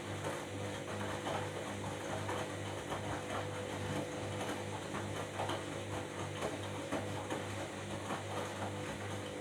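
Washing machine running through its wash cycle: a steady motor hum that pulses regularly, with light clicks and knocks from the turning drum.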